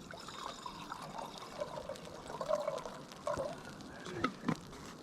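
Water being poured into a small backpacking cook pot, trickling and gurgling, with a couple of sharp knocks near the end.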